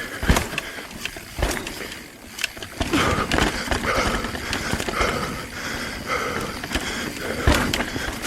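Mountain bike descending rough, rocky trail: tyres rumbling and the bike rattling over rocks and roots, with sharp knocks from hits, the hardest just after the start and again about seven and a half seconds in.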